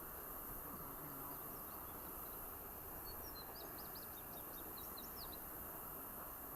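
A small bird singing a quick run of short, high chirps, starting about three seconds in and lasting about two seconds, over a steady faint hiss of outdoor noise.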